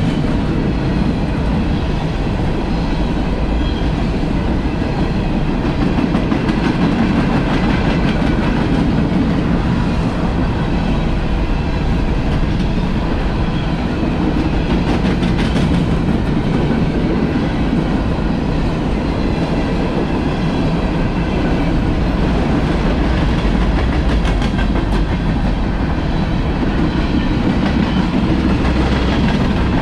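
Freight train cars rolling past, their steel wheels on the rails making a steady, loud rumble.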